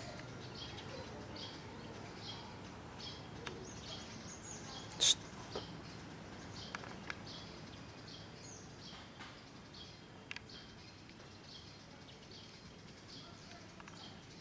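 Small birds chirping, short high chirps repeating about twice a second, with one brief, louder sharp sound about five seconds in, over a steady outdoor background hiss.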